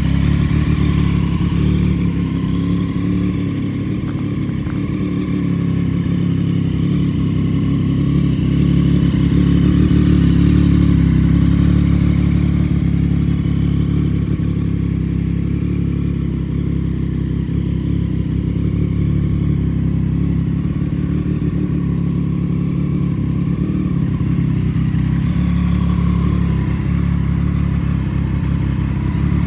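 Triumph Street Triple S's inline three-cylinder engine running through an SC-Project aftermarket exhaust, at a steady engine speed with a slight swell in loudness about a third of the way in.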